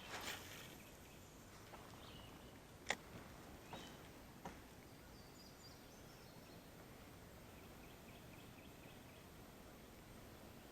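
Near silence with faint outdoor background hiss, broken by a few sharp clicks in the first five seconds, the loudest about three seconds in. Faint, distant chirps come later.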